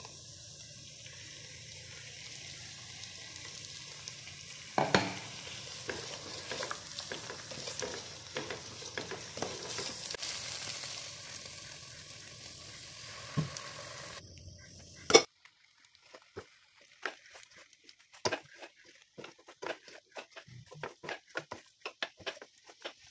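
Food sizzling as it fries in a pan while a spatula stirs it, with a few sharp knocks of the spatula against the pan. About fifteen seconds in, the sizzle cuts off and only quieter, irregular clicks and scrapes of stirring remain.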